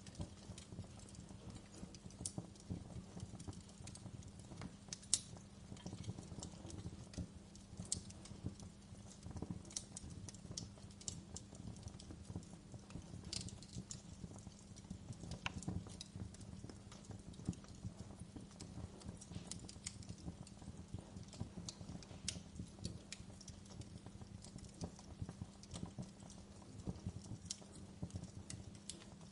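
Fireplace fire crackling: irregular sharp snaps and pops over a steady low hum.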